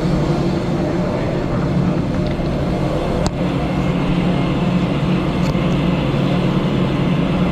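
Steady low mechanical drone of a parked airliner's machinery, with one sharp click about three seconds in.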